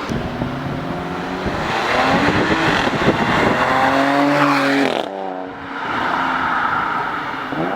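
Audi S4's supercharged 3.0-litre V6 with the muffler deleted, accelerating hard: the exhaust note climbs in pitch, breaks off briefly about five seconds in at a gear change, then pulls again.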